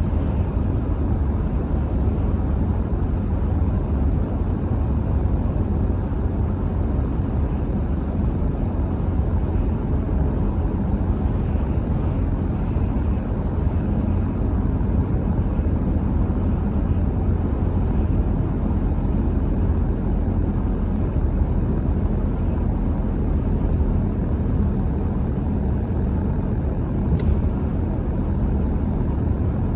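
A car driving at a steady speed: a constant low rumble of road, tyre and engine noise. A single short click comes near the end.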